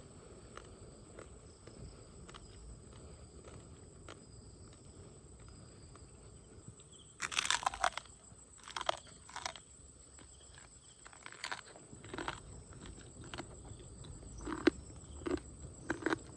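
Crunching bites and chewing on cooked crab shell. A quiet stretch, then a loud burst of crunches about seven seconds in, followed by scattered shorter crunches.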